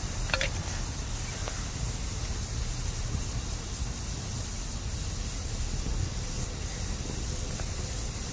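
Bamboo burning in a campfire, with a steady hiss like moisture steaming out of the stalks. One sharp crack comes about a third of a second in, and a fainter click follows about a second later.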